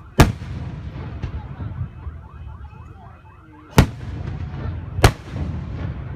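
Aerial fireworks bursting overhead: a loud bang right at the start and two more near the end, over a steady low rumble of other shells going off.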